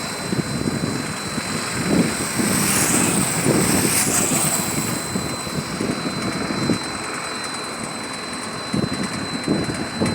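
Airplane engines running steadily, with a thin high whine over an even noise and uneven low rumbles.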